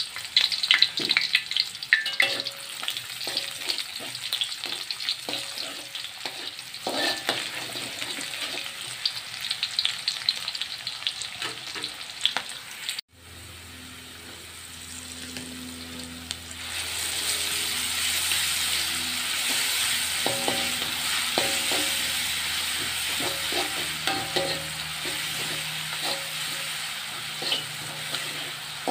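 Sliced shallots frying in hot oil in a wok, crackling, with short scrapes and clicks of a spatula. After a sudden cut about halfway through, ground chilli paste goes into the oil and is stirred with a metal spatula, and the sizzle becomes louder and steadier.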